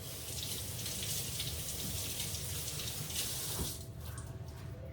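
Kitchen sink faucet running as gloved hands are washed under the stream, then turned off a little under four seconds in.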